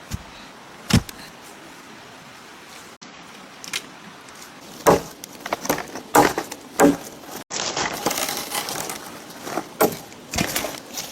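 Sharp knocks and chops on wood: two single strikes, then quick clusters of blows, with a stretch of rustling in the middle.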